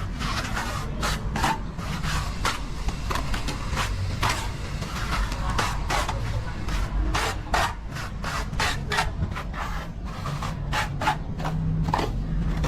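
Steel plastering trowel scraping and spreading plaster on a wall in many short, irregular strokes, over a low background rumble.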